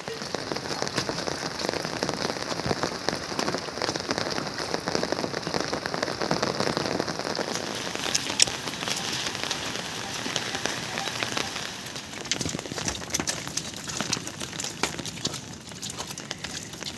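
Steady rain falling on surfaces, a dense patter of drops with many small ticks, and one sharper tick about eight seconds in.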